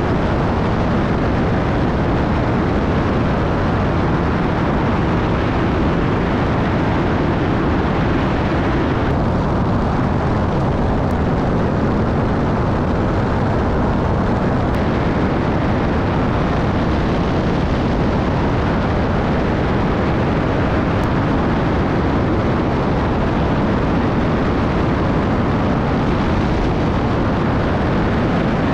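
Steady, loud rushing noise of an aircraft, with no distinct tones. The upper part of the sound drops away for a few seconds midway, then returns.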